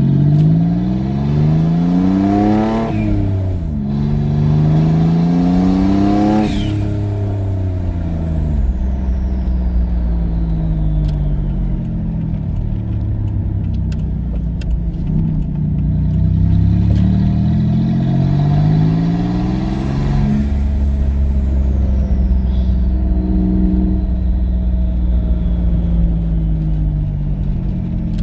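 Twin-turbocharged V6 Ford Mustang accelerating hard through the gears, the engine note climbing and then dropping at shifts about three and six seconds in, then running steadier before pulling up again. After each pull a thin whistle falls slowly in pitch as the turbos wind down.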